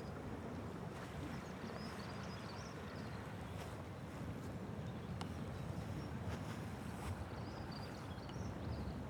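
Atlantic surf washing onto a rocky shore: a steady, low rushing of breaking waves.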